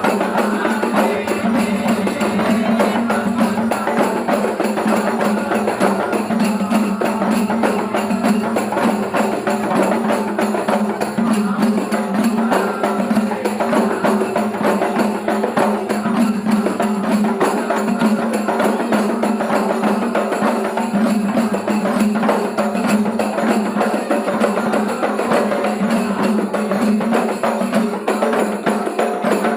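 Rudad ensemble music: rebana frame drums beating a continuous rhythm, without a break.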